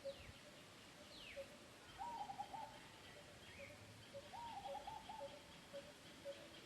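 Faint wild birds calling: a short low note repeated steadily about twice a second, a warbled call of a few notes twice, and two quick falling whistles near the start.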